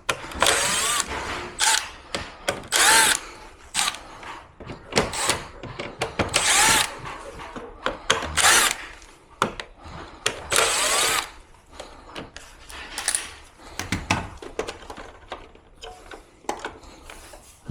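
Cordless drill-driver running in about five short bursts, each under a second, with clicks and knocks of handling between them.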